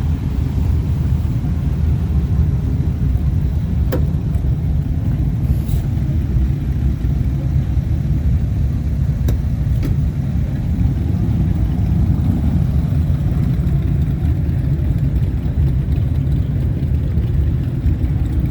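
Steady low rumble of a vehicle on the move, engine and road noise, with a few faint clicks.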